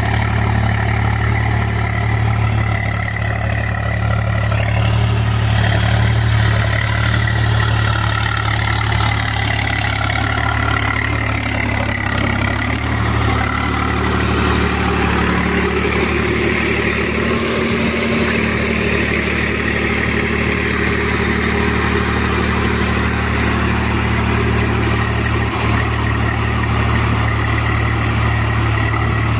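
Swaraj 735 FE tractor's three-cylinder diesel engine running steadily as the cage-wheeled tractor works through a soft paddy field, its pitch shifting slightly about twelve seconds in.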